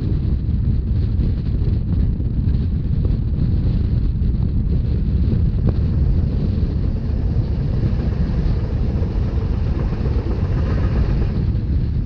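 Wind buffeting the microphone over the steady low rumble of a Rhaetian Railway narrow-gauge train running on the track. A hiss builds in the upper range about seven seconds in and dies away near the end.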